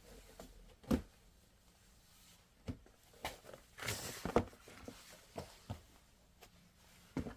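Handling noises while unpacking a 3M dust mask: scattered taps and clicks, with a short rustle of packaging about four seconds in.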